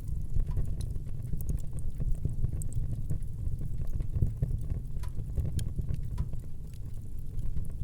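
Wood fire crackling in a fireplace: irregular sharp pops and snaps scattered over a steady low rumble of burning.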